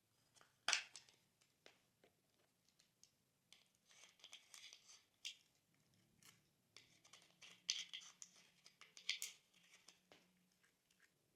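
Glossy slime being worked and squished, making a quiet string of sticky clicks, pops and crackles. There is a sharper snap near the start and denser crackling in the middle and toward the end.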